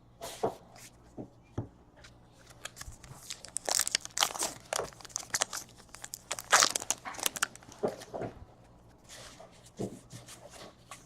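Trading cards and card-pack wrappers being handled by hand: irregular crackly crinkling and tearing with sharp card flicks, busiest in the middle.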